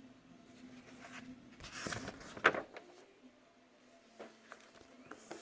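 A picture-book page being turned: a short paper rustle about two seconds in, ending in a sharp tap, followed by a few faint clicks.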